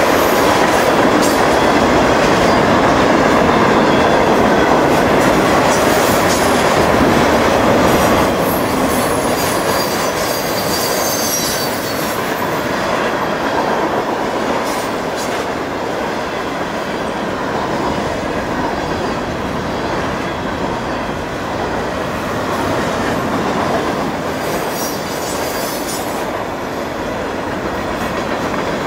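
Freight train cars rolling through a grade crossing: a steady rumble of steel wheels on rail, with high wheel squeals now and then.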